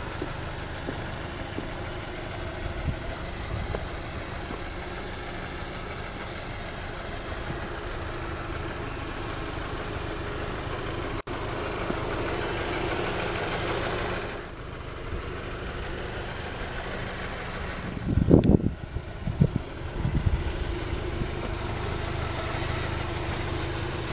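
2008 Volkswagen GTI's turbocharged 2-litre four-cylinder engine idling steadily. A few short low thumps come about three quarters of the way through.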